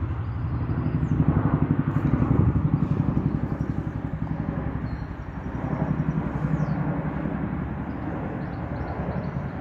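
Boeing CH-47 Chinook tandem-rotor helicopter flying over, its rotor blades beating in a fast, steady pulse that grows louder about two seconds in and swells again around six seconds.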